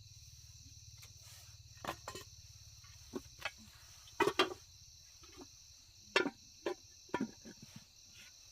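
Crickets trilling steadily in a high, even chorus. Over it come a handful of short, irregular knocks and clatters, as of objects being picked up and moved.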